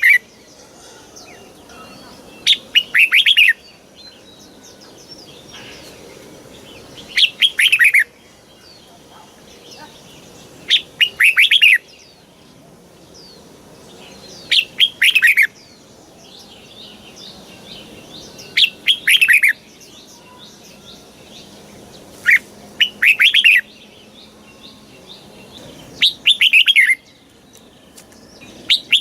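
Red-whiskered bulbul singing: short phrases of quick, clear notes, each about a second long, repeated about every four seconds, with faint softer chatter in between.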